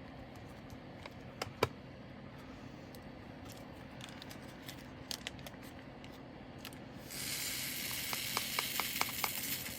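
Small plastic diamond-painting drills clicking and tapping as they are handled. About seven seconds in comes a steady, hissing rattle lasting a couple of seconds as a stream of drills is poured out of a bag into a storage container.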